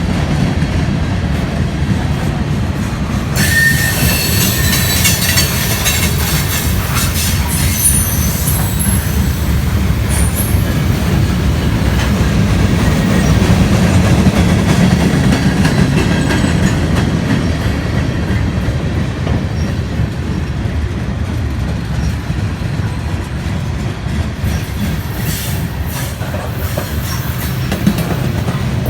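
Train rolling past, a steady rumble of railcars on the track. High wheel squeal rings out from about three seconds in for several seconds, and faintly again near the end.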